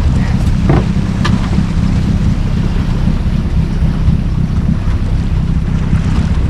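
Boat's motor running steadily on open water, a constant low rumble, with wind buffeting the microphone.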